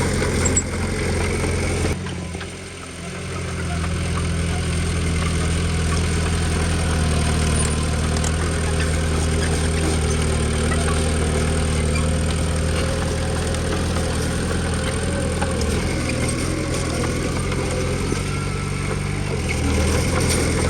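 Heavy-machinery diesel engine running steadily at a low, even speed, with a brief dip in level about two seconds in.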